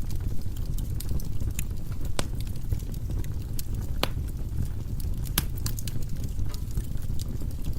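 Firewood burning in a fireplace: a steady low rumble of flames with irregular sharp crackles and pops from the logs, two of them louder, at about four seconds and about five and a half seconds in.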